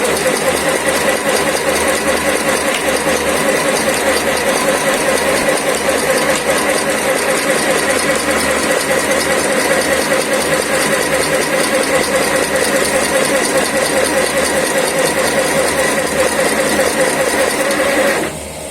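Agarbatti (incense stick) making machine running steadily with a fast, even clatter, then stopping abruptly near the end.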